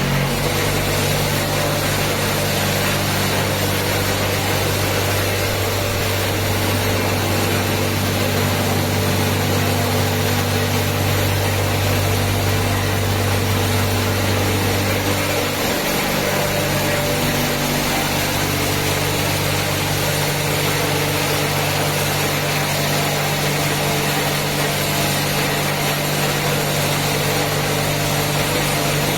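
Touchless car wash machine running: a steady motor hum over a constant spray hiss. About halfway through the lowest hum drops out and the remaining hum changes pitch, as the machine changes stage.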